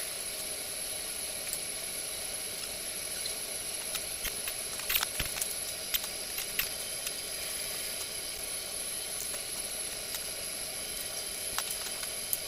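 Steady background hiss with a thin high whine, broken by a few light clicks and taps about five to seven seconds in.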